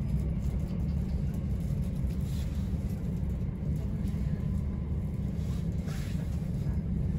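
Steady low rumble of a Southern Class 377 Electrostar electric multiple unit running along the line, heard from inside the carriage, with a couple of faint hissing swells.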